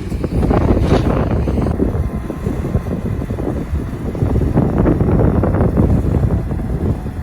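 Heavy construction machinery such as a dump truck or bulldozer running with a continuous low rumble, with wind buffeting the microphone.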